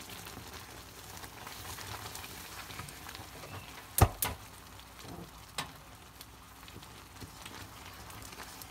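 Hot flaxseed, ghee and sugar-syrup mixture sizzling and crackling in an iron karahi as a wooden spatula stirs it. A sharp knock about four seconds in is the loudest sound, with lighter knocks just after it and around five and a half seconds, likely the spatula striking the pan.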